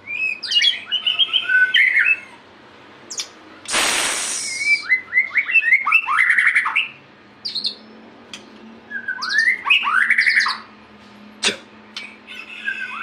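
White-rumped shama singing in vigorous bursts of fast, sweeping whistled phrases with short pauses between them. About four seconds in there is a loud harsh rasping burst lasting about a second, and a couple of sharp clicks.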